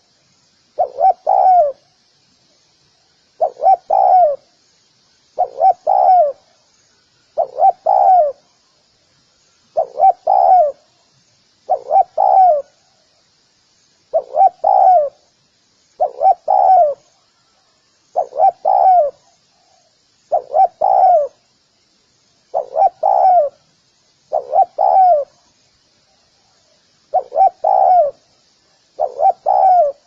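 Spotted dove cooing: a low coo phrase of two or three notes, repeated about every two seconds.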